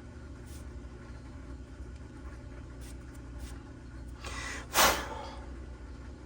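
A few light clicks of small parts being handled over a steady low hum, then a short, sharp rush of air about five seconds in.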